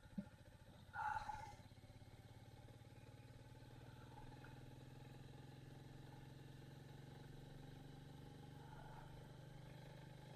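Royal Enfield Meteor 350's single-cylinder engine running faintly at low, steady revs, heard through the action camera. A brief voice sound comes about a second in.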